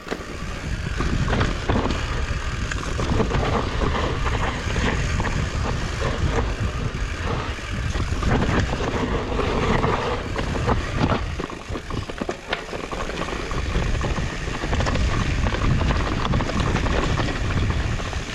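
Wind rushing over the camera microphone, mixed with the rattle and knocks of a mountain bike riding fast over rough trail.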